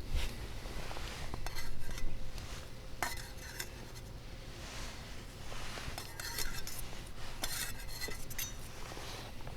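Chopsticks clicking and clinking against a bowl in irregular short clusters, stirring and breaking the yolks of raw eggs.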